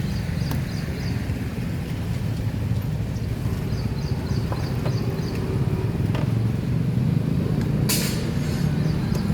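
A steady low engine rumble, with a few light clicks and a short hiss about eight seconds in.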